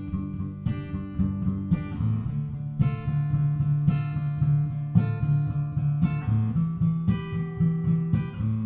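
Acoustic guitar strumming chords in a steady rhythm as an instrumental introduction, with no singing yet.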